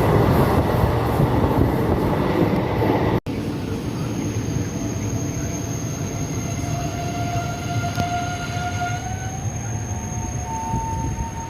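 Train running on the rails: a loud rumble for about three seconds, then an abrupt break. After the break the running is quieter, with long drawn-out squealing tones from the wheels.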